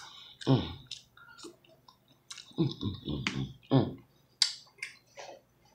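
A person chewing a forkful of noodles, heard as a series of short mouth smacks and clicks.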